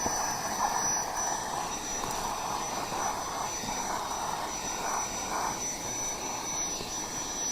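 Cordless handheld vacuum cleaner running steadily on its eco setting: a constant high motor whine over a rush of air that wavers a little as the nozzle moves.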